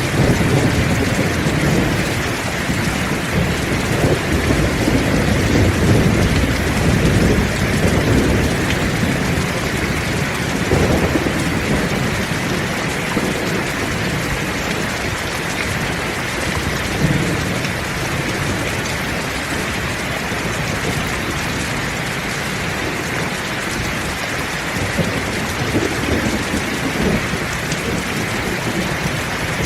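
Heavy rain pouring steadily, with low rolls of thunder rumbling through it, heaviest in the first half and returning twice later.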